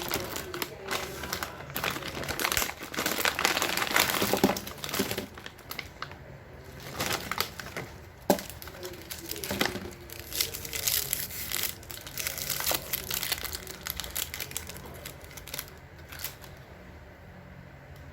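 Plastic snack packaging crinkling and rustling in irregular bursts as it is handled, dying down in the last few seconds.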